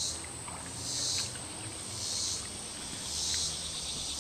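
Insects calling: a steady high-pitched whine with a buzzing call pulsing about once a second over it.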